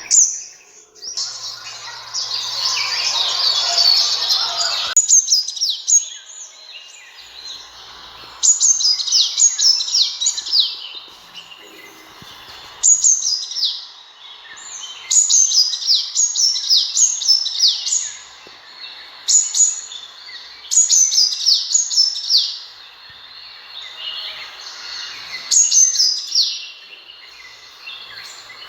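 Sunbird calling: short bursts of quick, high, falling chirps, repeated every two to three seconds, after a louder, noisier stretch of dense chirping in the first few seconds.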